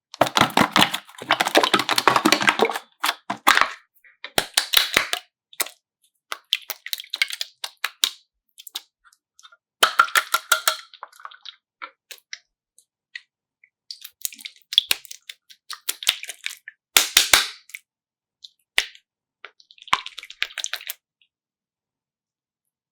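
Bursts of sharp clicks and crackles, some packed into dense clusters lasting a second or two, others single, with short quiet gaps between them.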